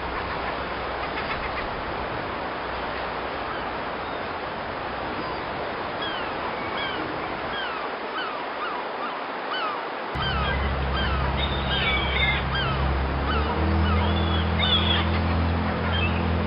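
Birds calling over and over, short hooked cries, above a steady hiss. About ten seconds in, a steady low hum comes in and becomes the loudest sound.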